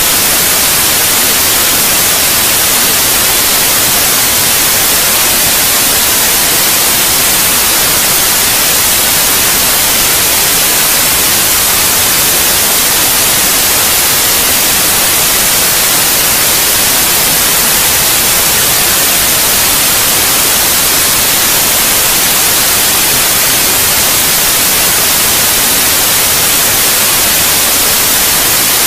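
Steady white noise, a constant loud hiss with no change.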